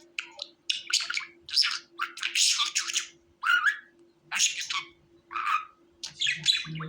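Budgerigar chirping and chattering in a string of short, separate high-pitched calls, roughly one or two a second, over a faint steady hum.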